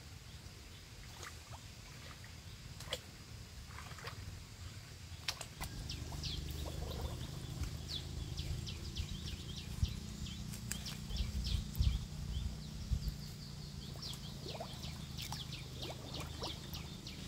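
Birds chirping, many short high chirps, over a low rumble that grows louder about six seconds in.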